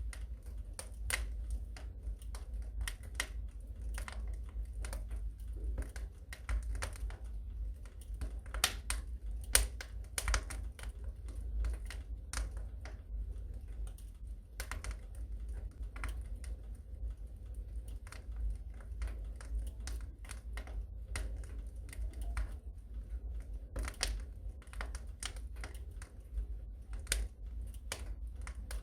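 Wood fire crackling in a fireplace: irregular sharp pops and snaps of varying loudness over a steady low rumble.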